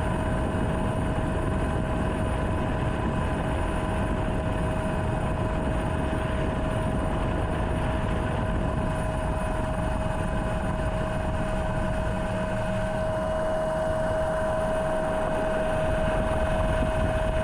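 Helicopter running steadily: a constant engine whine over an even rushing noise, cutting off abruptly at the end.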